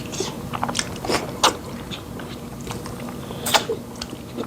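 Close-up eating sounds of fufu and pepper soup: wet chewing and irregular lip smacks, with two louder smacks about a second and a half in and at about three and a half seconds.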